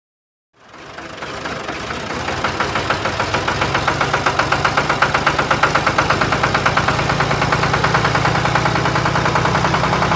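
An engine running with a rapid, even knocking beat, like a diesel tractor idling. It fades in about half a second in and grows louder over the next few seconds.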